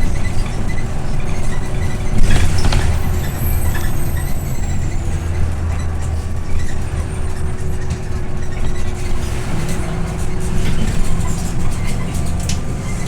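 Scania OmniLink I city bus heard from inside while driving, a steady low engine drone under road and cabin rattle. About two seconds in comes a short burst of noise, the loudest moment.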